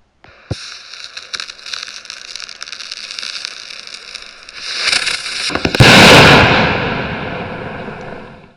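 Fireworks going off: a sharp crack, then several seconds of dense hissing and crackling, then a much louder rushing burst about six seconds in that fades away over a couple of seconds.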